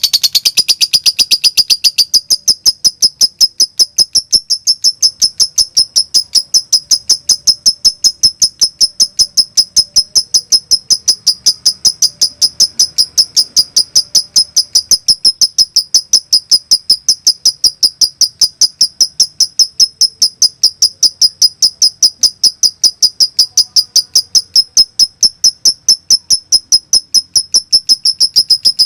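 Lovebird calling in the rapid 'konslet' (short-circuit) style: a long, very even string of sharp, high-pitched chirps, several a second, without a break.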